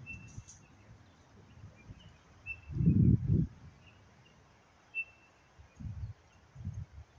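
A small bird giving a short, high chirp every couple of seconds. About three seconds in, a brief low rumble is the loudest sound, and a few softer low thumps follow near the end.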